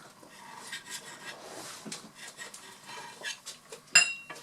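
Cutlery clinking and scraping against plates at a meal, with one sharp, ringing clink near the end.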